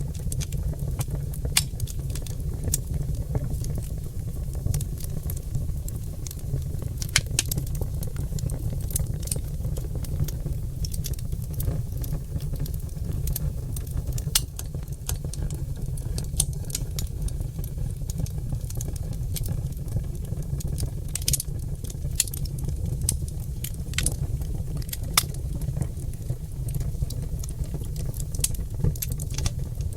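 Oak logs burning in a fireplace, with irregular crackles and sharp pops over a steady low rumble. A few pops stand out louder, around seven, twenty-one and twenty-five seconds in.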